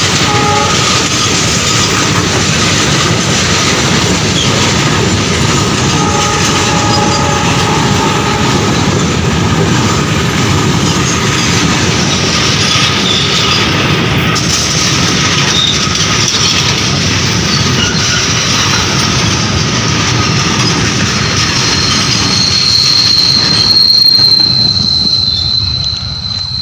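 Freight wagons of a goods train rolling past close by: a steady loud rumble and clatter of steel wheels on the rails, with a thin high wheel squeal that grows strongest near the end. The sound starts to fall away just at the close, as the tail of the train passes.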